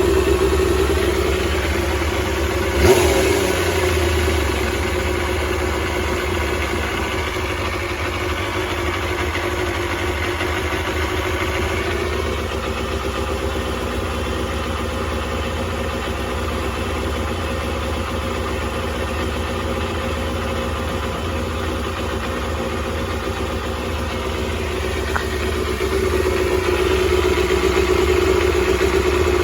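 Kawasaki Balius 250 cc inline-four engine idling steadily, with a sharp click about three seconds in. Its idle drops slightly and quietens through the middle, then picks back up near the end.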